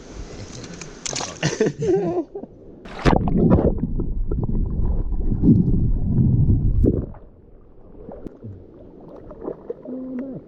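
Water sloshing and gurgling close to the microphone. It is loudest in a stretch of about four seconds in the middle, then drops away.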